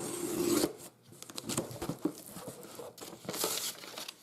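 Crinkling and rustling of something being handled, with scattered light clicks; the loudest rustles come at the start and again about three and a half seconds in.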